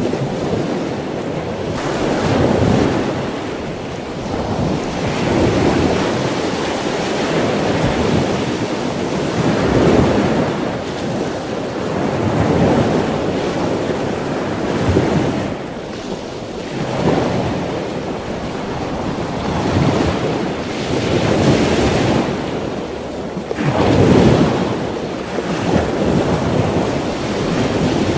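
Ocean waves washing in, the surf swelling and easing every two to three seconds.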